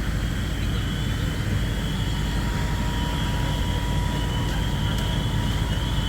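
Fire apparatus engines running at the fireground: a steady low rumble, with a thin high whine throughout and a second, lower whine coming in about a second in.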